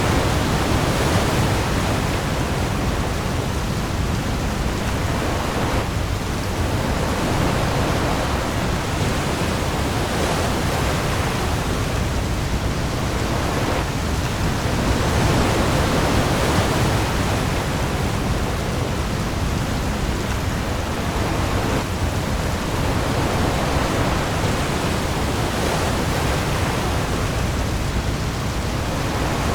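Heavy rain pouring onto the sea in a storm, a dense steady hiss with a deep rumble under it and gentle swells every few seconds.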